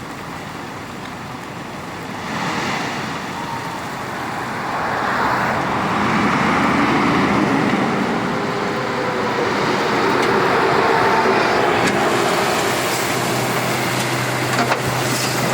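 Tipper truck's diesel engine running with road noise, getting louder about two seconds in and again from about five seconds, with a faint steady whine under it.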